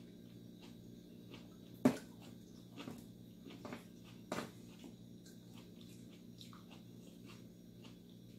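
Close-up eating sounds of someone chewing sardines, vegetables and rice: soft mouth clicks over a steady low hum, with a sharp click about two seconds in and a few smaller ones in the next few seconds.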